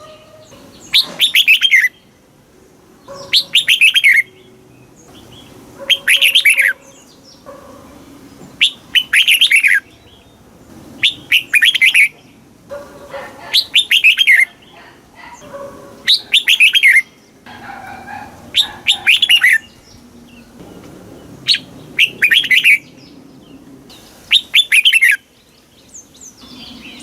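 Red-whiskered bulbul singing its short, quick song phrase over and over, about one phrase every two to two and a half seconds. Each phrase is a fast run of notes that sweep downward.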